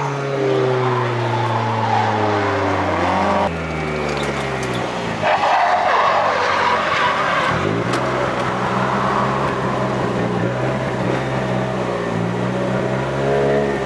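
Drift car's engine revving, its pitch falling and rising as the throttle changes, with tyres squealing through a slide for a few seconds in the middle.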